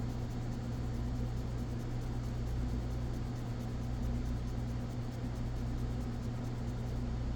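Steady low electrical-sounding hum over an even background hiss, unchanging throughout.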